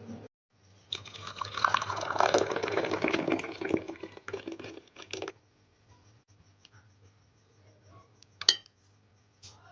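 Liquid pouring and splashing for about four seconds, then a single sharp click near the end.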